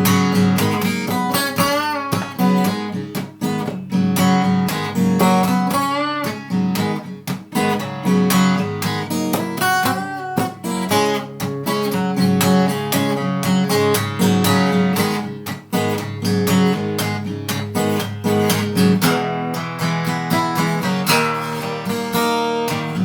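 Acoustic guitar playing a blues instrumental break between verses, strummed and picked, with some wavering, bent notes.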